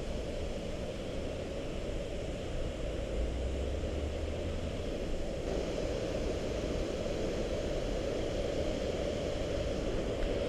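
Steady, even rush of a waterfall's falling water, with no breaks or distinct events.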